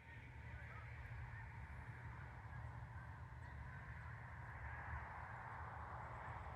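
A large distant flock of geese calling, many honks overlapping into a continuous chorus. A steady low rumble runs underneath.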